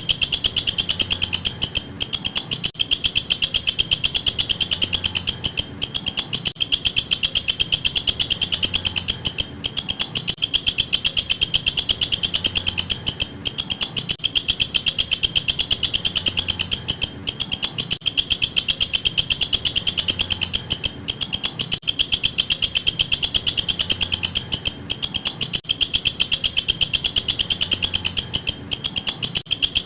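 Walang kecek insect calling: a loud, fast, even train of shrill chirps, broken by a brief pause every few seconds.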